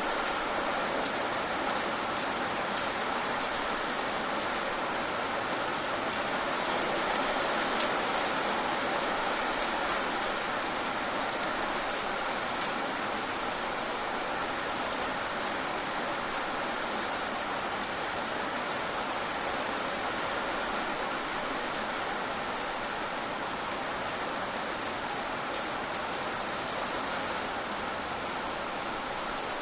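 Steady rain falling, with scattered distinct drop hits heard over an even hiss.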